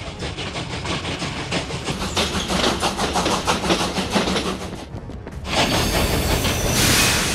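Train sound effect: a locomotive clattering rhythmically along the rails, then a rushing noise that swells loudest near the end as it closes in.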